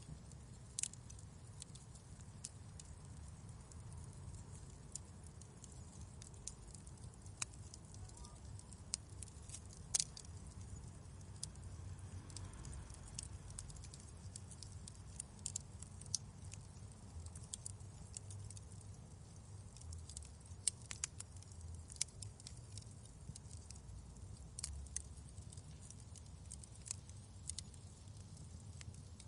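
Fireplace fire crackling: irregular sharp pops and snaps, a few louder than the rest, over a steady low rumble.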